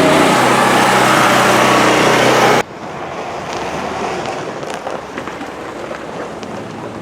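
Raven mower's gasoline engine running steadily just after a cold start, then cutting off abruptly about two and a half seconds in. A much quieter background rumble with a few light clicks follows.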